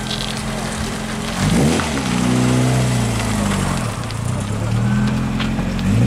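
Ford Fiesta XR2's four-cylinder petrol engine running as the car pulls away, revving up about a second and a half in, easing off, then revving up again near the end.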